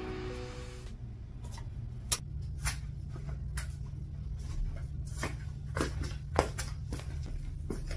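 Irregular light clicks and taps, as from small objects being handled and set down, over a low steady hum. Background music fades out in the first second.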